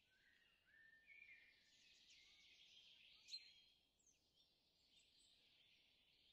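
Faint bird calls: short whistled notes and chirps, a few rising slightly, with one sharper chirp a little past three seconds in.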